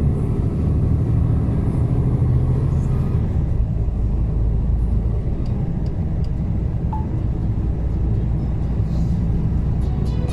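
Mercedes-Benz Actros truck engine running with a steady low rumble as the truck, loaded with about 10 tonnes, goes down a steep hill.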